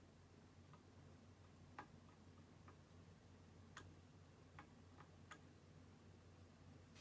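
Near silence: quiet room tone with about half a dozen faint, irregularly spaced clicks.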